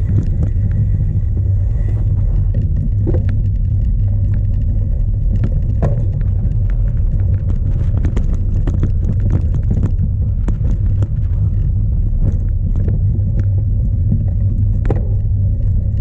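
Strong wind buffeting the microphone of a bike-mounted onboard camera in a steady, heavy low rumble, with scattered clicks and knocks from the cyclocross bike over rough ground.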